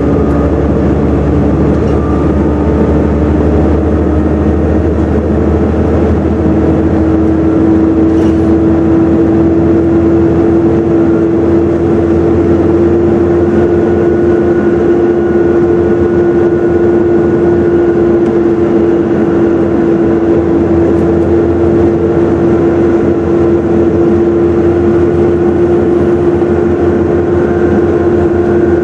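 Volvo B7TL double-decker bus heard from on board while under way: the engine runs steadily under a loud whine, the 'hoover' sound. The whine climbs slightly in pitch over the first several seconds, then holds steady.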